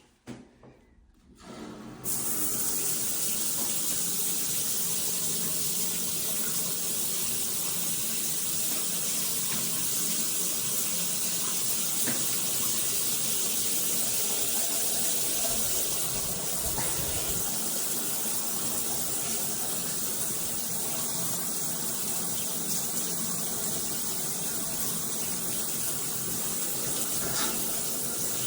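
Shower running: water spraying steadily from a shower head. It comes on suddenly about two seconds in and holds an even hiss throughout.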